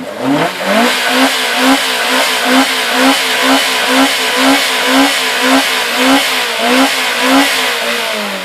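Car engine revved hard from idle, its exhaust climbing quickly and then held at high revs with a rhythmic surge about twice a second. The revs drop away near the end.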